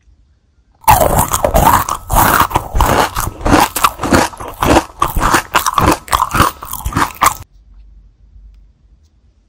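Close-miked crunching and chewing of a crispy pink puffed snack ball, a dense run of sharp crunches that starts about a second in and cuts off abruptly near the end.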